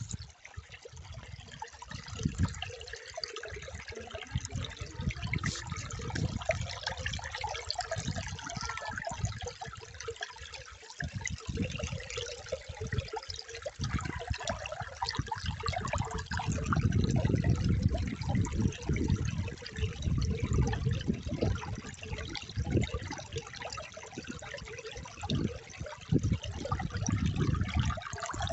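Water flowing and trickling steadily, with irregular low rumbling that swells around the middle and then eases.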